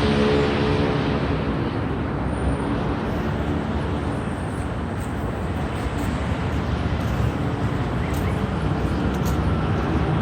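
Street traffic: a vehicle's engine note fading out in the first second, then a steady rumble of traffic noise.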